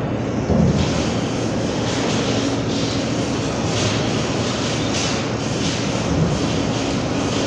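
Steady machine noise with a low hum and a hiss that swells and fades, and a brief low thump about half a second in.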